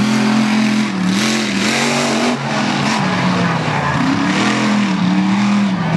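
Avenger monster truck's supercharged V8 engine racing around a track, its pitch rising and falling again and again as the throttle is worked through the turns, with a dip a little over two seconds in.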